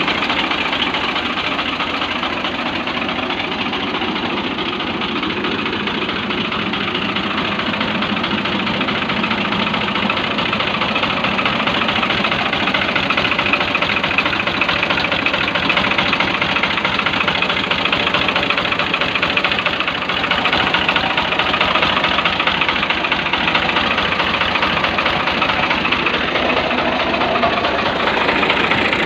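Diesel engine of a 2006 Al-Ghazi 65 HP tractor running steadily.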